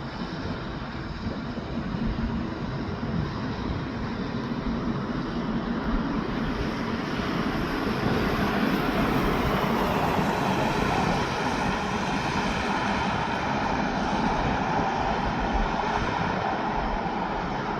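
Heavy truck passing on the road, its engine and tyres rumbling steadily and growing louder about halfway through.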